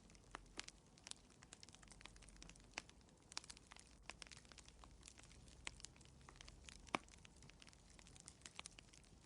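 Wood fire crackling in a fireplace: faint, irregular snaps and pops over a low, soft rumble, with one sharper pop about seven seconds in.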